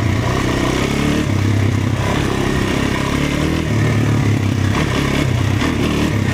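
Small off-road vehicle engine running while being ridden, its pitch rising and falling a few times with the throttle.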